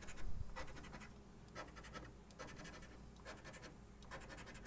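Scratch-off lottery ticket being scratched: short rasping strokes across the latex coating, about two a second.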